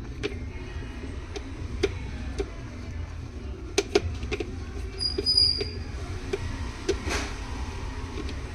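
Sharp clicks and small metal taps of a screwdriver and loose screws as the four motor mounting screws of a mixer grinder are undone, with a brief squeak about five seconds in and a short scrape near the end. Faint background music runs underneath.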